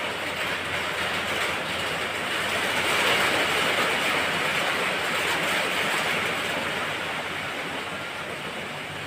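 Rain falling, a steady hiss that grows louder around the middle and eases off toward the end.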